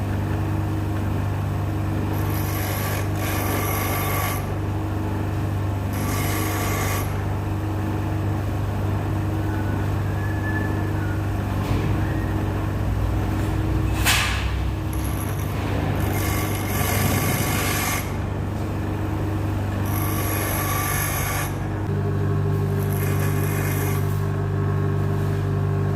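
Electric grinder motor running steadily, with about five bursts of grinding, each one to two seconds long, as a blunt steel drill bit is pressed against the wheel to sharpen it. There is one sharp crack about two-thirds of the way through.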